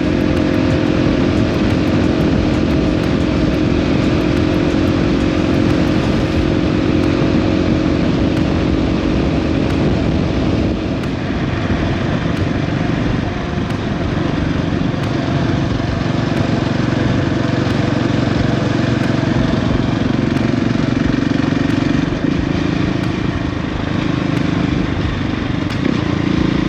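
Motorcycle engine running steadily at cruising speed, with wind and road noise. The engine note eases off briefly about eleven seconds in and again a few seconds later, then holds steady.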